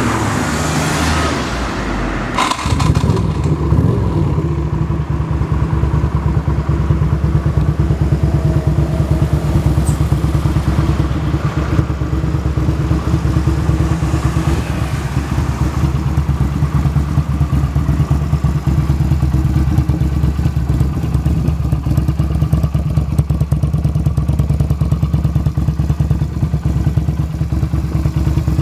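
Nissan R'nessa car engine being started: the starter cranks for about two seconds, the engine catches with a thump, then it settles into a steady idle.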